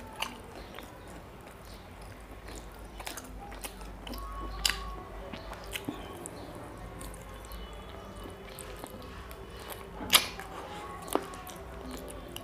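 Close-up mouth sounds of a person eating curried chicken leg pieces by hand: wet chewing with scattered smacks and clicks, a sharper smack about two-thirds of the way through.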